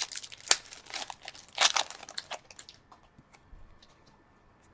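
Foil trading-card pack wrapper crinkling as a pack is handled and torn open, busiest in the first two and a half seconds, then dying away to a few faint light ticks.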